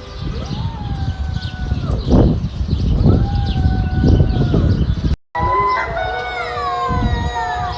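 Animal calls: two long, held calls of about a second and a half each, rising at the start and dropping away at the end. After a brief break, a call falls in pitch near the end.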